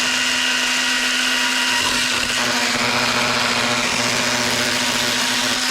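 Electric pruning saw's motor and chain running at a steady speed, then cutting off suddenly near the end.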